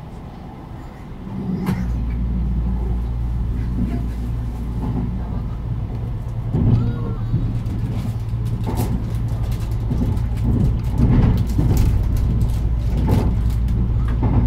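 Kintetsu 80000 series 'Hinotori' electric train running, heard from on board: a steady low rumble and hum that grows louder about two seconds in, with scattered knocks.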